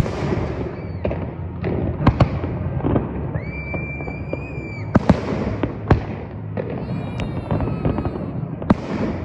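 Fireworks going off in rapid succession: sharp bangs over continuous crackling, with a high steady whistle lasting about a second and a half a little after three seconds in. A low steady hum runs underneath.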